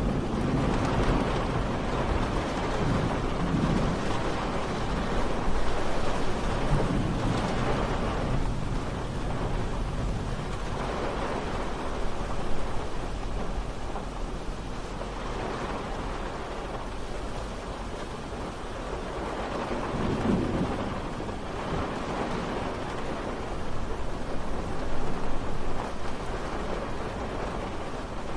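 Steady rain falling, with low rumbles of distant thunder swelling and fading at times.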